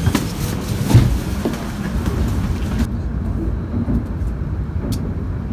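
Steady low rumble of a Joetsu Shinkansen train under way, with a single thump about a second in.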